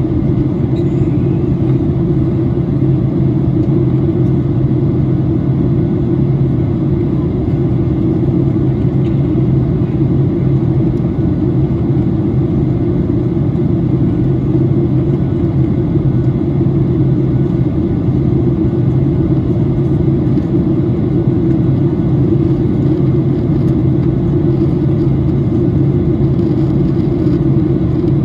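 Steady cabin noise inside a Boeing 737-800 in flight: the low, even drone of its CFM56 engines and the airflow over the fuselage.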